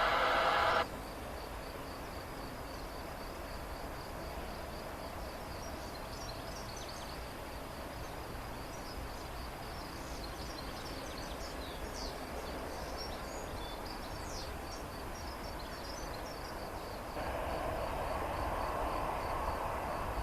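Outdoor ambience: birds chirping in short high calls over an evenly pulsing insect trill and a steady low background noise that grows a little louder about three quarters of the way through. A radio transmission cuts off just under a second in.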